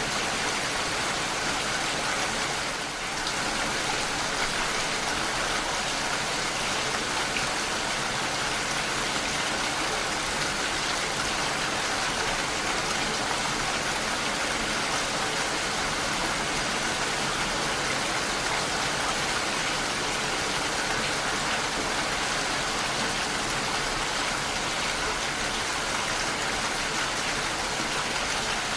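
Steady heavy rain, an even hiss of falling drops, dipping slightly for a moment about three seconds in.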